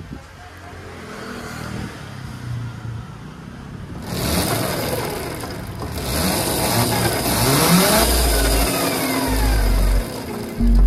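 Gogoro 2 electric scooter's drivetrain spinning up, a harsh rattling noise with a rising whine. The noise comes from a dry, unlubricated drive chain with seized links.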